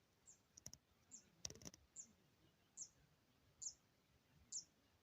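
A small bird calling faintly, a short high chirp that slides downward, repeated evenly about once a second. There are two sharp clicks in the first two seconds.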